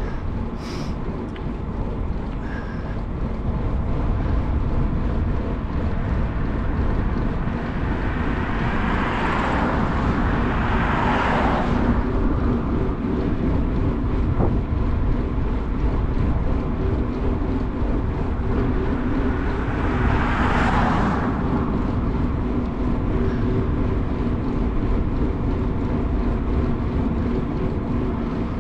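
Steady rush of wind on the microphone and carbon mountain bike's tyres rolling on pavement during a fast downhill descent, growing a little louder a few seconds in. Twice there is a swell of louder rushing noise that rises and falls over a couple of seconds: once about a third of the way through, once about two thirds.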